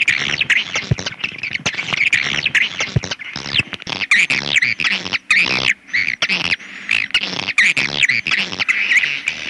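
Swiftlets chirping and twittering in a rapid, unbroken stream of high calls: a swiftlet lure-call track of the kind played to draw swiftlets into a nesting house.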